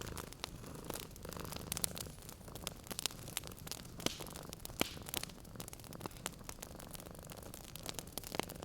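Wood fire crackling, with irregular sharp pops and snaps several times a second, over a cat's low steady purr.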